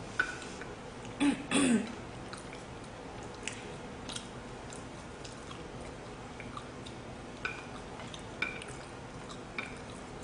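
Someone chewing food with small wet mouth clicks and smacks scattered through, and a short vocal sound, like a hum, about a second in.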